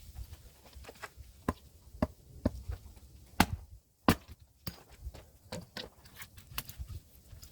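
Hand axe chopping firewood: a series of sharp wooden knocks, the two loudest strikes coming about halfway through, sped up by double-speed playback.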